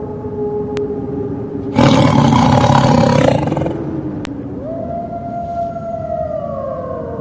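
Added sound effects: a slow wailing tone that glides down and then rises again like a siren, with a loud rough burst about two seconds in that lasts under two seconds.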